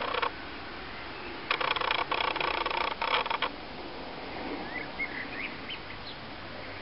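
A bird's rapid chattering call: a short burst ending just after the start, then a louder one lasting about two seconds. A few faint high chirps follow near the end.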